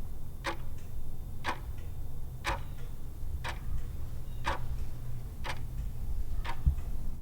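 Clock ticking about once a second over a steady low hum: a countdown-timer sound effect running while the quiz question waits for its answer.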